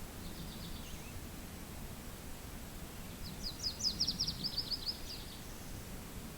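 A small songbird singing a rapid trill of short, sharp high notes, heard faintly just after the start and again louder about three seconds in, over a steady low rumble of wind.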